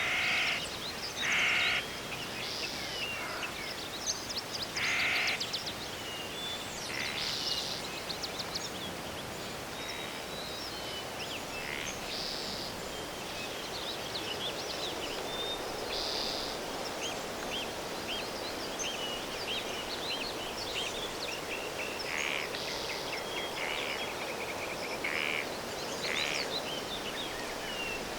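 Forest birds calling over a steady background hiss: crows cawing repeatedly, loudest in the first few seconds, with smaller birds chirping throughout.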